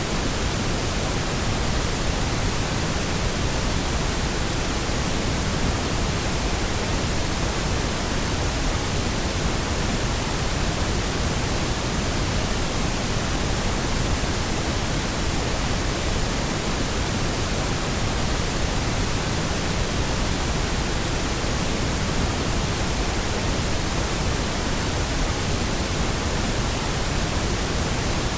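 Steady, unchanging pink noise: an even hiss spread across all pitches, with no breaks or events.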